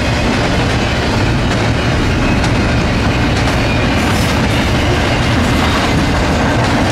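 Norfolk Southern freight train rolling past, loud and steady, its wheels clacking over the rail joints above a continuous low rumble.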